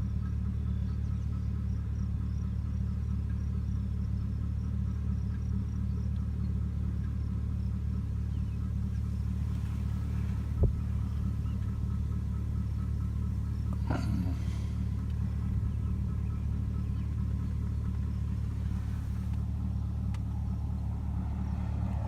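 Steady low rumble with a single sharp click about ten seconds in.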